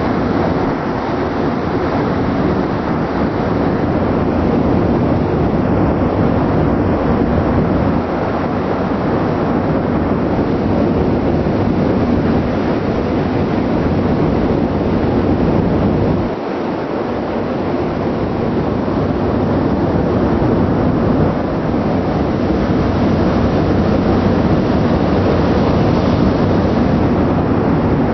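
Ship's engine and exhaust vent running, a loud steady rumble with a low hum in it.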